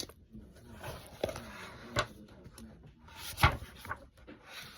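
Several sharp knocks and clacks of household objects being handled, over faint rustling; the loudest knock comes about three and a half seconds in.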